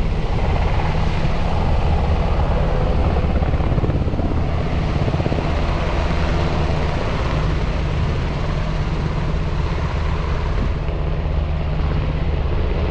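A steady engine drone, holding an even pitch throughout, with a rushing noise over it.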